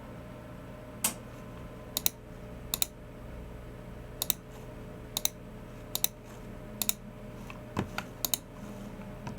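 Slow, irregular clicks from a Logicool MX Keys Mini keyboard and a Logicool G304 mouse, about fifteen in all, many coming in quick pairs a tenth of a second apart, over a faint steady hum.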